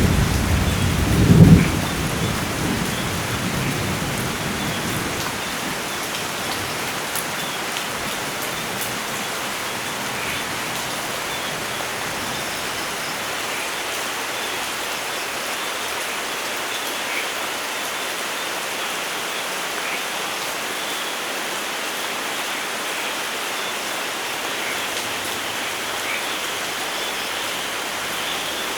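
Thunder rumbling, with a loud peak about a second and a half in that dies away over the next few seconds, over heavy steady rain falling on forest foliage. The rain continues as an even hiss once the thunder has faded.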